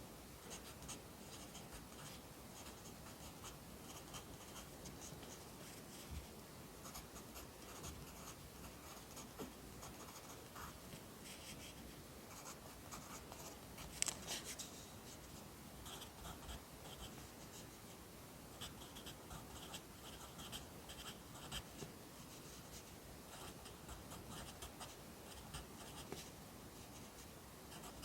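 Pencil writing Korean characters on paper: a steady run of short, soft scratching strokes, with one sharper, louder stroke about halfway through.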